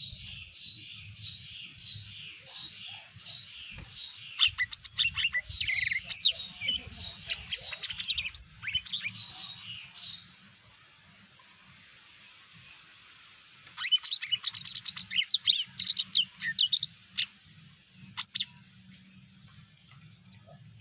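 Cucak ijo mini (leafbird) singing: a run of evenly repeated high notes, then a rapid, varied burst of whistles, chips and sweeping notes. After a pause of a few seconds a second fast burst follows, ending with a single call, over a faint low hum.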